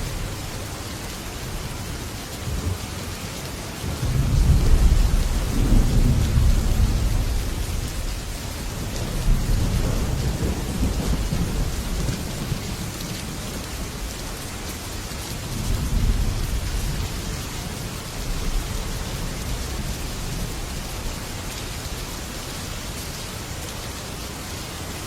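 Heavy rain drumming steadily on a metal roof, with rolling thunder. The loudest, deep rumble builds about four seconds in and rolls on for several seconds, another follows soon after, and a weaker roll comes past the middle.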